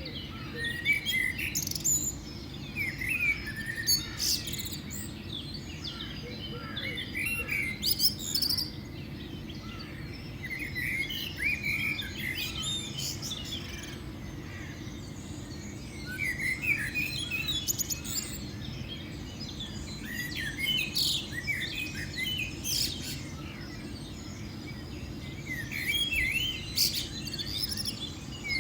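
Small birds chirping and singing in short, quick trills that come in clusters every few seconds, over a steady low background rumble.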